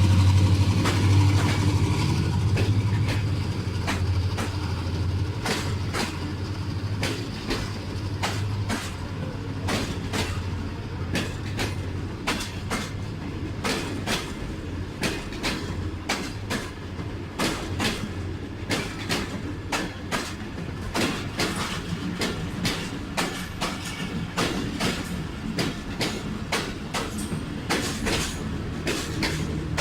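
A diesel locomotive's low engine hum fades over the first few seconds as passenger coaches roll past. The wheels click over the rail joints in a repeating clickety-clack that comes quicker as the departing train gathers speed.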